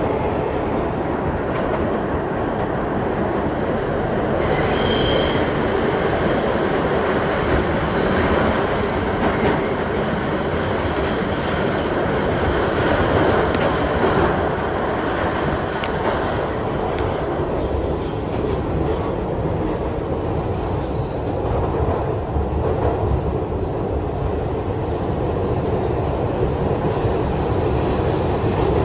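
Kawasaki R62 subway car running on the rails with a steady rumble; from a few seconds in until past the middle, the steel wheels squeal at a high pitch, then the squeal stops and only the running rumble remains.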